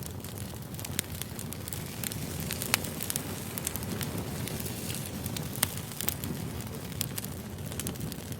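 Wood fire crackling: a steady low rush of flames with frequent sharp pops and snaps.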